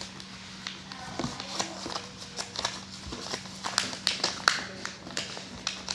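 A sheet of paper being folded and creased by hand: irregular light taps, clicks and rustles as the paper is pressed and handled.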